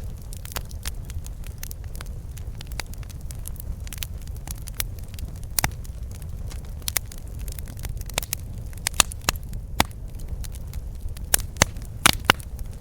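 Campfire burning: irregular crackles and sharp pops of burning wood over a steady low rumble of the flames, with a cluster of louder pops near the end.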